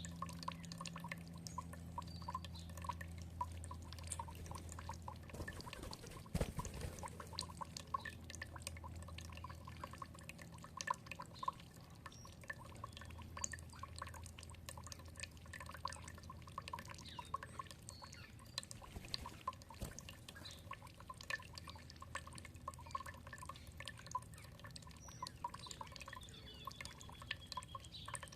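Water dripping and trickling, many small drips in quick irregular succession over a low steady hum, with a faint falling bird whistle near the end.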